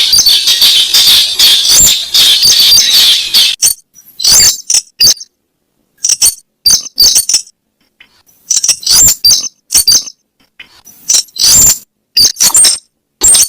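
Recorded lure call of the weris bird: sharp, high, rapid chattering calls. They run in one dense stretch for the first few seconds, then come in short bursts with silent gaps between them.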